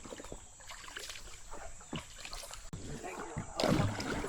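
Canoe paddles dipping and splashing in a creek and knocking against the hull: a run of small knocks and splashes that grows louder about three and a half seconds in.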